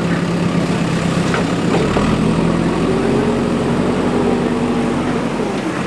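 Heavy diesel engine running steadily, its pitch rising slightly about two seconds in as it revs up, with a few faint clicks.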